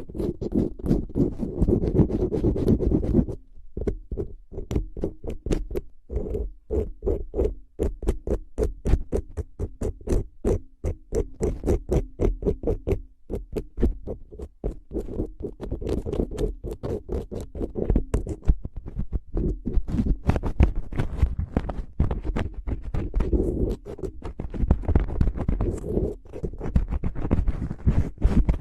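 Close-miked ASMR trigger sounds: a fast, irregular run of taps and scratches, several a second, over a low rumble, with a brief lull about three and a half seconds in.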